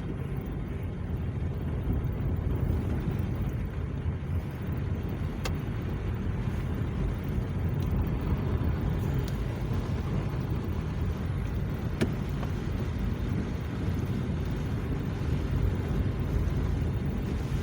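Steady low rumble of a car driving, engine and tyre noise heard from inside, with a couple of faint sharp clicks.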